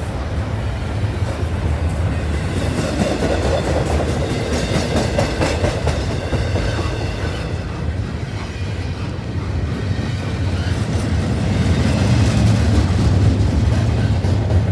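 Double-stack intermodal well cars of a freight train rolling past, a steady low rumble with the clatter of wheels over the rails, growing a little louder in the second half.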